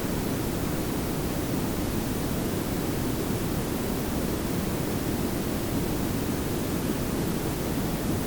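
Steady layered pink and brown noise: an even, unbroken hiss over a heavier low rumble, with no changes or events.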